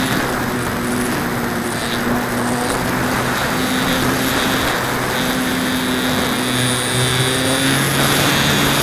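Multiplex Acromaster RC plane's electric motor and propeller running steadily, heard from a camera on board the plane. A high motor whine sits over a lower drone, with wind rushing over the microphone.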